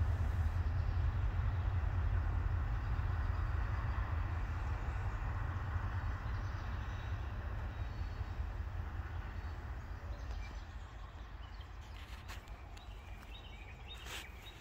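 Freight train cars rolling away down the line, a low rumble and wheel noise on the rails that fades steadily as the train recedes. A few faint clicks come near the end.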